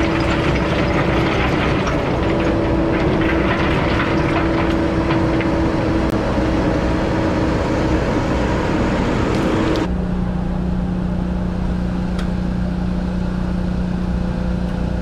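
Mini excavator's diesel engine running steadily, with scattered clatter over it. About ten seconds in the sound changes abruptly to a steadier, lower engine hum.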